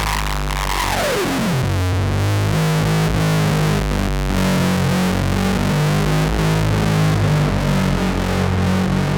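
Novation Circuit groovebox playing a distorted, noisy drone synth patch: a tone sweeps steeply down in pitch within the first second and a half, over sustained low droning tones and a dense buzzy wash.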